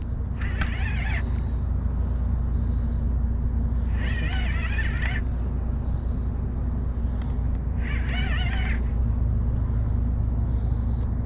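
A dog whining in high, wavering cries about a second long, four times at roughly four-second intervals, over a steady low droning hum.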